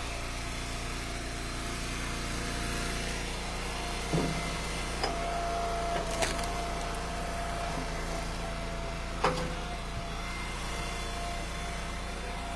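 Engine of a hydraulic log splitter running steadily, with sharp cracks of wood splitting about four, six and nine seconds in. A higher steady whine joins in for a few seconds in the middle.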